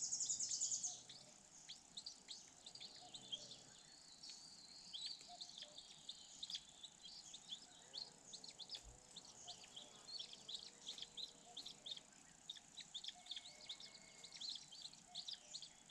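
Small birds chirping, many short high chirps repeated throughout, faint, with a brief high trill in the first second.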